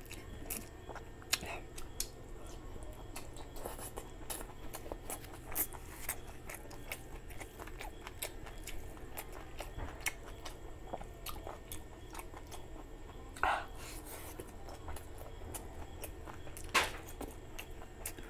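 Close-up chewing of a mouthful of rice and curry: many wet mouth clicks and smacks, with fingers mixing rice on the plate, and a few sharper clicks standing out.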